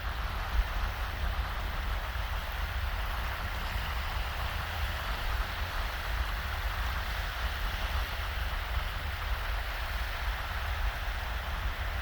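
Small, shallow waves washing steadily on a sandy beach, with a low buffeting rumble of breeze on the microphone.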